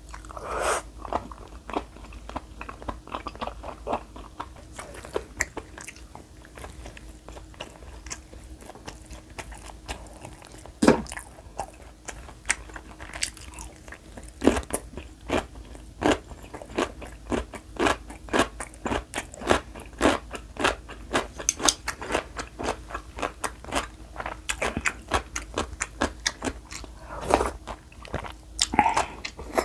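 Close-miked chewing of food, with many crisp, irregular crunches and wet mouth sounds, over a faint steady hum.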